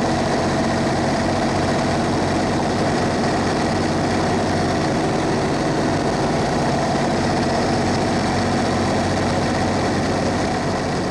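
The Cummins ISB 6.7-litre diesel engine of a Thomas Saf-T-Liner C2 school bus running steadily at an even, unchanging engine speed, as at idle.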